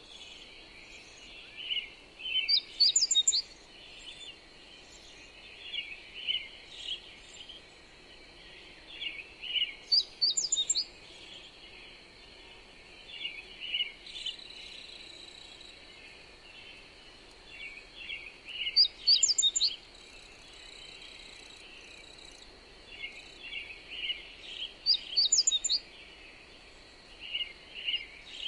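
Songbirds singing in short phrases of quick, repeated chirps, with a higher run of rapid notes about every six to nine seconds. Beneath them is a steady hiss of wind and pink noise, with a thin steady high tone.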